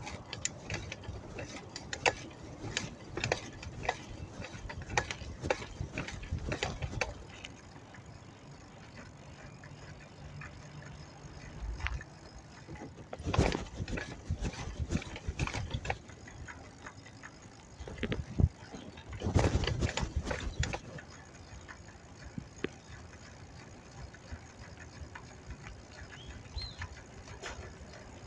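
A bicycle being ridden, rattling and clicking with many irregular knocks, and louder clusters of knocks about halfway through and again about two-thirds of the way through.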